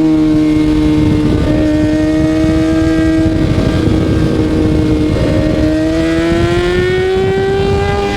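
Kawasaki ZX-6R 636 inline-four engine running at high revs while riding, holding a steady pitch and then rising over the last two seconds as the bike accelerates.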